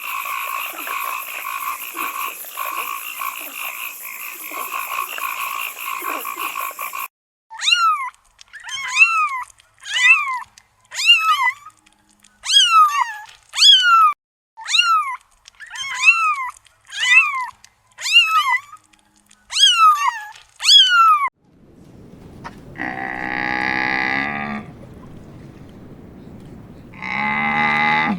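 A run of animal calls: first a steady, high, rapidly pulsing trill lasting about seven seconds, then about a dozen short calls that each slide downward in pitch, roughly one a second. Near the end come two long, low calls, typical of cattle mooing.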